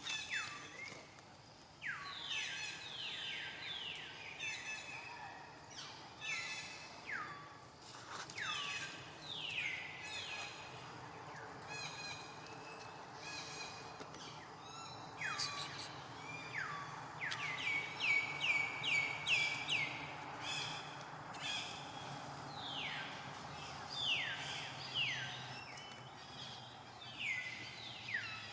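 Birds calling repeatedly: short notes that slide down in pitch, often several in quick succession, with a rapid run of short notes about two-thirds of the way through. A steady hiss of background noise lies beneath.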